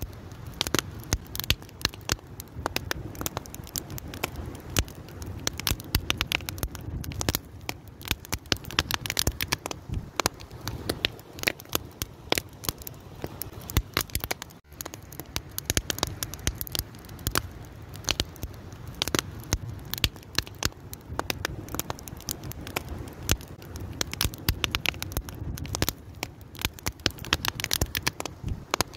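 An open fire burning steadily, crackling with many irregular sharp pops over a low rumble of flame, with a brief dip in level about halfway through.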